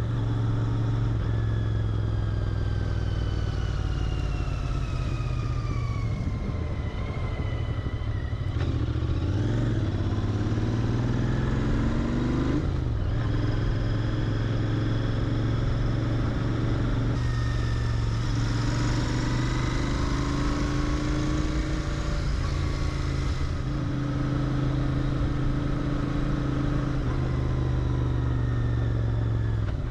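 Royal Enfield Interceptor 650's 648 cc parallel-twin engine through its stock mufflers, running steadily under way. Its pitch shifts several times about a third of the way in as the revs change.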